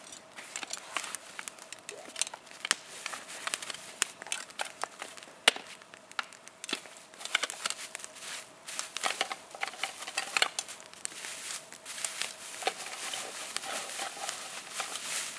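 Plastic garbage bag rustling and crinkling, with scattered clicks and knocks, as a sooty camping pot is pulled out of it.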